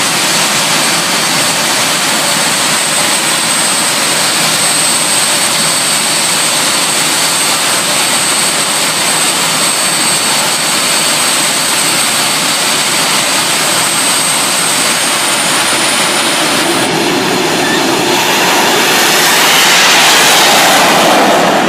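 Jet car's jet engine running with a loud steady roar and a high whine. The whine climbs a little about fifteen seconds in and then drops away, and the roar swells louder near the end.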